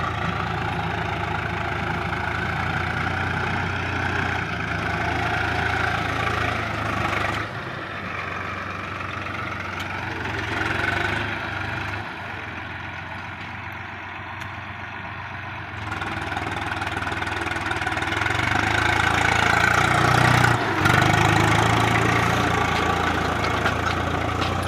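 Tractor engine running, its level dropping for a few seconds in the middle and rising to its loudest near the end as the throttle changes.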